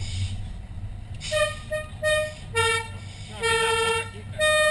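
Fire engine's horn sounding in about six blasts, short ones and one long one, alternating between two pitches, over the steady low rumble of the truck's engine.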